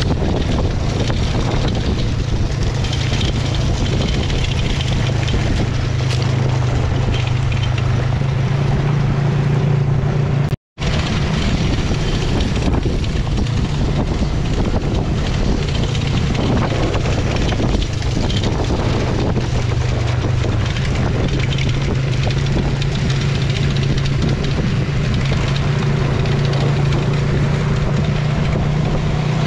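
Honda XR400 four-stroke dirt bike engine running at a steady cruising pace while being ridden, with wind buffeting the microphone. The sound drops out for an instant about ten seconds in.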